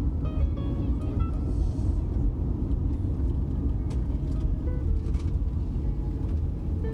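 Steady low rumble of cabin noise inside an Airbus A350-900 descending to land: airflow over the fuselage and its Rolls-Royce Trent XWB engines.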